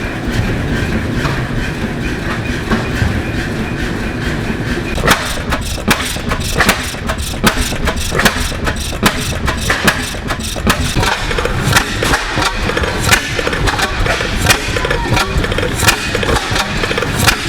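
Antique gas engines running, with many sharp, irregularly spaced exhaust pops and knocks over a steady engine noise.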